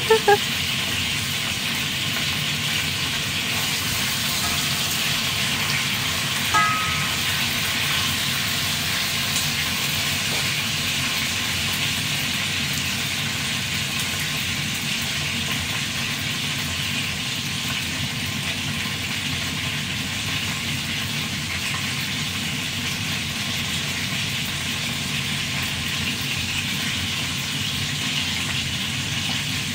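Turkey pieces frying in olive oil in a pot, a steady sizzle, with a brief knock about six and a half seconds in.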